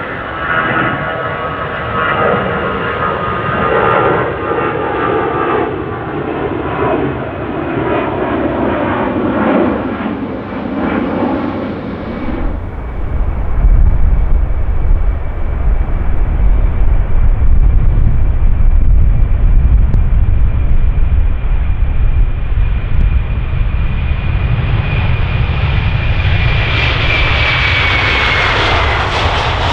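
Jet airliner engines: a whining jet sound for about the first 12 seconds, then an abrupt switch to a louder, deep rumble with a steady high tone, which grows brighter toward the end as the aircraft comes closer.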